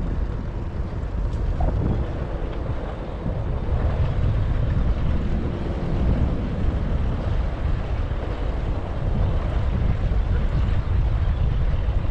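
Wind buffeting an action camera's microphone on a moving bicycle: a steady low rumble with gusty swells.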